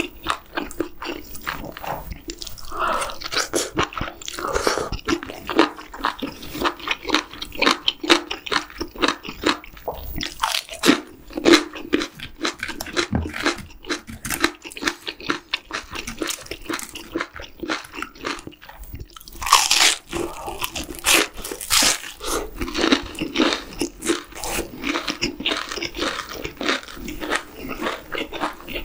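Close-miked eating of stir-fried webfoot octopus with bean sprouts and batter-fried shrimp: a dense, continuous run of crisp, wet chewing and crunching bites, loudest about two-thirds of the way through.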